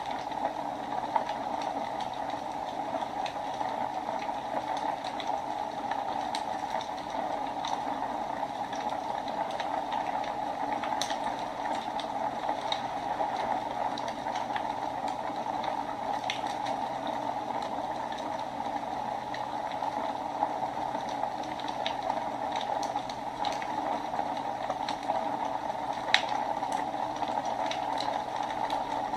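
Wood fire burning in a fireplace: a steady hiss with scattered sharp crackles and pops, the loudest pop about 26 seconds in.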